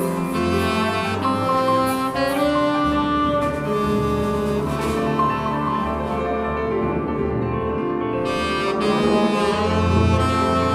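A live jazz quintet playing: saxophone and bass trumpet lines over piano, bass and drums. The cymbals drop out for a couple of seconds midway, then come back in.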